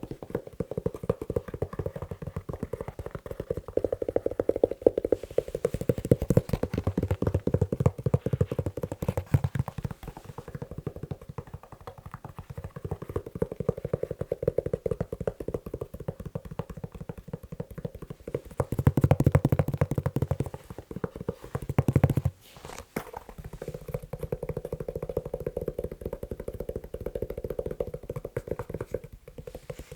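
Fast, dense tapping on a leather shoe. The tone shifts from stretch to stretch, with a brief break about two-thirds of the way through and another near the end.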